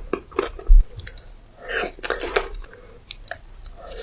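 Close-miked chewing and biting, with irregular wet, crunchy mouth sounds; a brief low thump about a second in.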